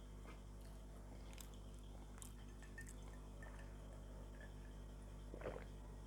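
Close-miked eating: faint wet mouth clicks and soft chewing, with one louder wet chew about five and a half seconds in, over a steady low hum.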